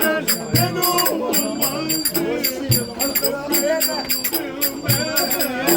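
Turkish folk dance music (oyun havası) played live: a wavering melody over fast, dense hand percussion, with a deep drum stroke about every two seconds.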